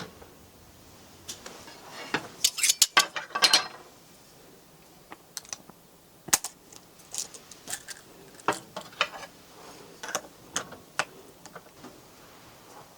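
Camp cooking gear being handled: a quick run of sharp clicks and clatters about two seconds in, then scattered knocks and taps.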